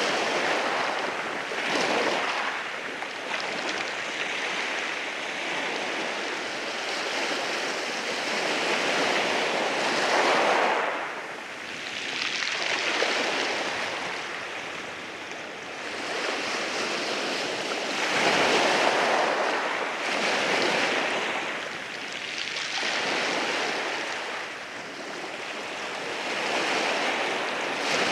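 Waves breaking and washing in over rocks, the surf swelling and easing every few seconds, with some wind on the microphone.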